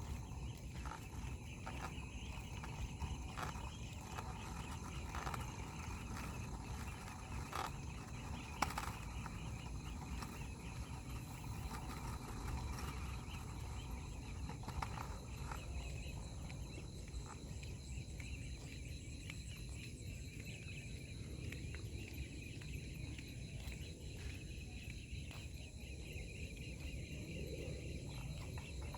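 Three-wheeled scooter rolling along outdoors: a steady low rumble with scattered clicks and knocks, mostly in the first half, under a steady high-pitched drone and faint birds chirping.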